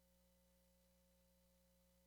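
Near silence: only a faint, steady electrical hum with a thin constant tone and no other events.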